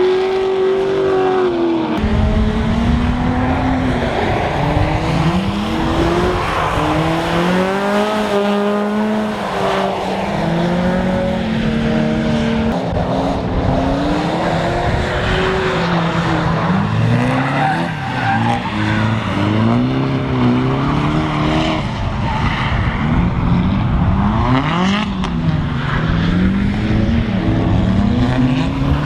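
Drift cars' engines revving hard, the pitch climbing and dropping many times as the drivers work the throttle through their slides, with tyre squeal from the wheels sliding on the wet track.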